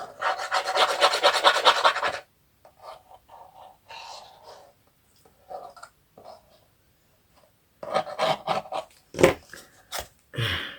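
Quick, dense scraping and rubbing strokes on paper for about two seconds, followed by scattered short rustles and knocks of craft materials being handled, busier again near the end.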